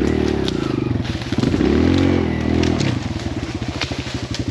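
Kawasaki KLX140L dirt bike's single-cylinder four-stroke engine revved twice, rising and falling, then settling to a steady idle about three seconds in. A few sharp clicks sound over it.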